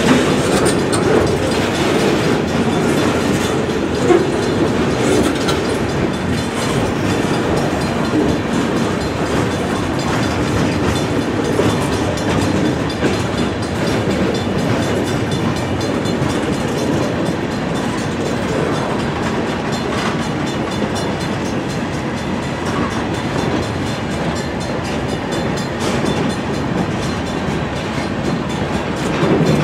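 Freight cars rolling steadily past a grade crossing: a continuous rumble of steel wheels on the rails.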